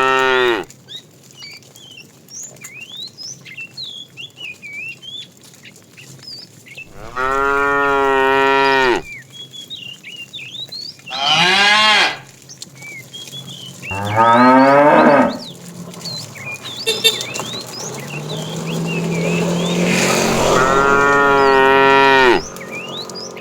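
Cows mooing: one call ends just after the start, then long moos come about seven, eleven and fourteen seconds in. The last and longest moo swells over about four seconds. Small birds chirp faintly between the calls.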